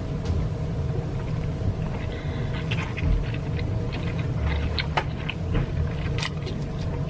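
Irregular small clicks and crackles of king crab shell being handled and cracked open to get at the meat, over a steady low rumble.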